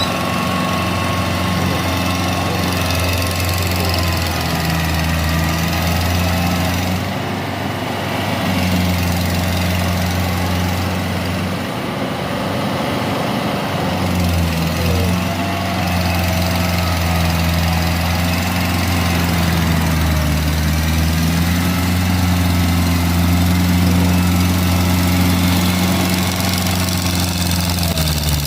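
Tractor engine running steadily while ploughing, its low note easing briefly a few times in the middle.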